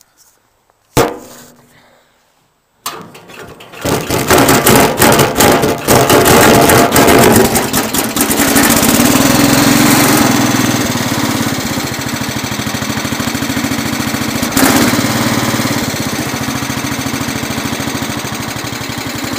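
Kohler K-241A single-cylinder engine of a Cub Cadet 107 cold-starting on full choke: a click about a second in, then the starter cranks briefly and the engine catches within a second. It runs rough and uneven for a few seconds, then settles into a steady run that eases lower in the second half.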